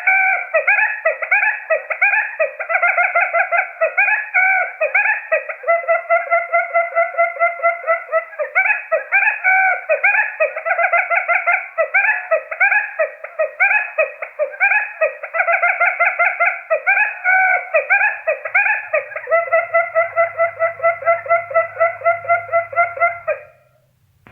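Recorded quail calls played as a trapping lure: a long, rapid run of repeated chattering notes, several a second, that stops shortly before the end.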